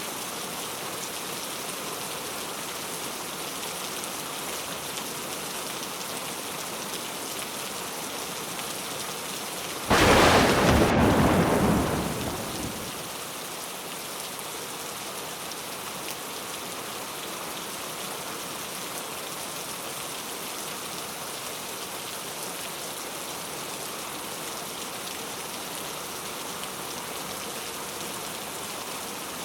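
Steady rain falling, with a single loud crack of thunder about a third of the way in that dies away over two to three seconds.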